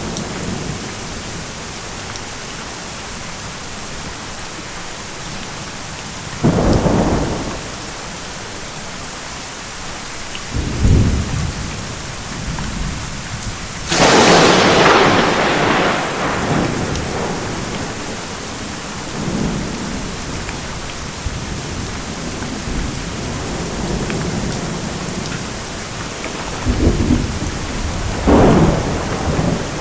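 Steady rain with thunder rolling in again and again: low claps and rumbles about a quarter and a third of the way in, a loud sharp crack about halfway through that rumbles off over a few seconds, and two more claps close together near the end.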